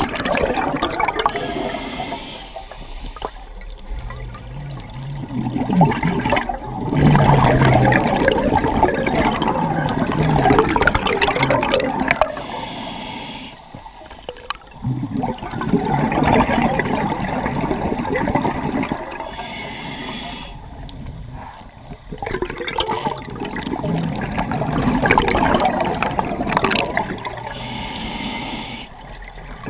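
Scuba diver breathing through a regulator underwater: a short hissing inhale, then a long rush of bubbling exhaust, repeating about every eight seconds.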